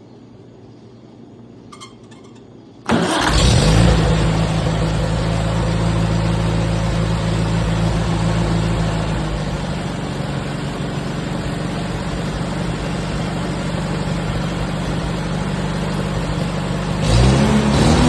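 Farmall 230 tractor's four-cylinder engine catching and starting about three seconds in, then running steadily at a fast idle, and briefly revving up near the end. It runs faster than it should at idle because the throttle rod is too short, with a temporary wire rigged in its place.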